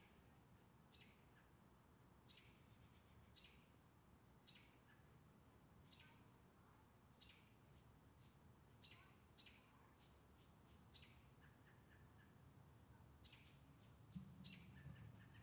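Faint bird calls: a single sharp chip, a quick falling note, repeated roughly once a second about a dozen times over a faint low background rumble.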